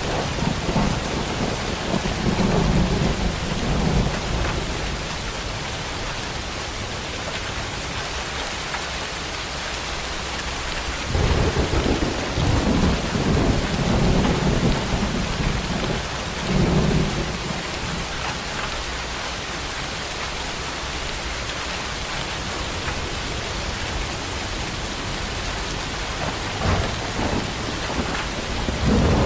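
Steady heavy rain with rolling thunder: low rumbles swell at the start, again for several seconds in the middle, and once more at the very end.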